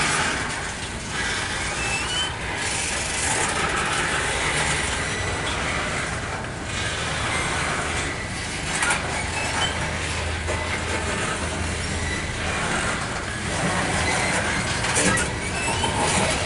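Loaded coal hopper cars of a freight train rolling past close by: a steady rumble and clatter of steel wheels on the rails, with occasional sharper clacks as the wheel sets pass.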